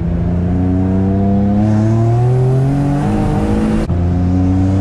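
Infiniti G35's single-turbo VQ35 V6 accelerating hard on low boost (6 psi), its pitch climbing steadily, dropping at a gear change about three seconds in, then climbing again.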